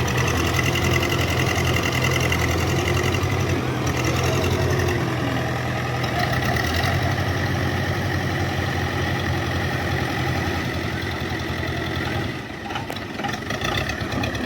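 Tractor engine running steadily at a low, even beat, dipping briefly in level near the end.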